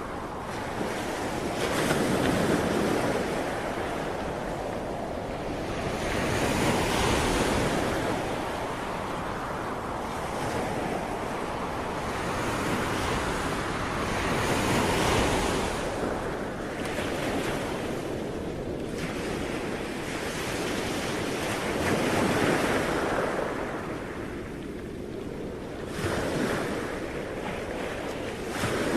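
Ocean waves breaking and washing onto the shore, swelling and easing in slow surges every several seconds.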